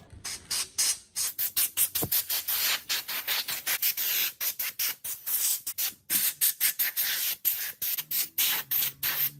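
Hand abrasive work on a rusty metal part, sanding or scrubbing it in quick back-and-forth strokes, about three a second, with a short pause about six seconds in.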